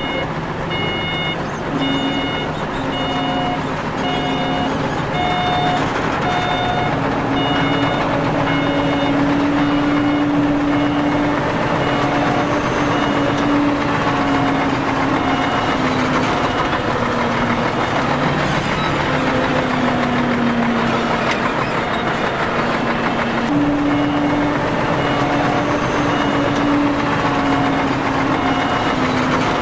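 Heavy diesel construction machine running, its engine note rising and falling, with a reversing alarm beeping about once a second while it backs up.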